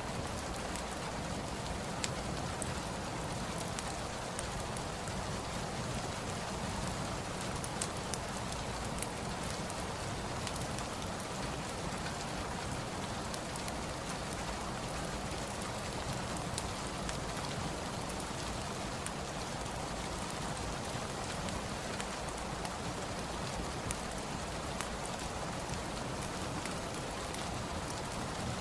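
Steady rain falling, an even hiss of rain with many small sharp ticks of drops scattered through it.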